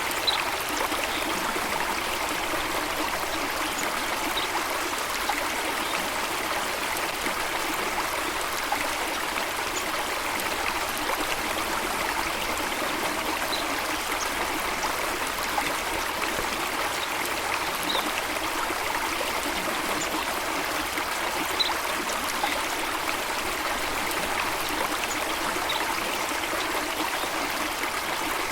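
Steady rush of cascading water, even and unbroken, with a few faint, brief high bird chirps now and then.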